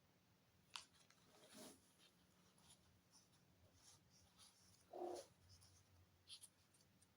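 Near silence with faint rustling and light clicks of hands working soil and plant pots. A brief, faint pitched sound comes about five seconds in.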